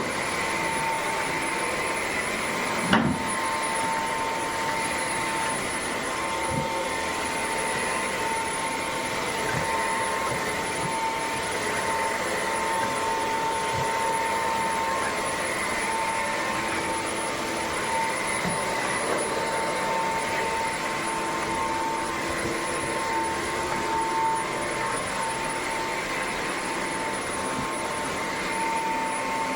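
Bissell CrossWave cordless wet-dry vacuum running steadily: a constant high motor whine over rushing airflow, with a single knock about three seconds in.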